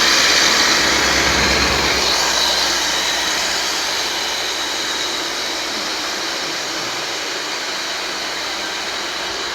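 Motor of a small homemade model aircraft running with a steady high whine and rushing noise, fading gradually over the first few seconds and then holding steady.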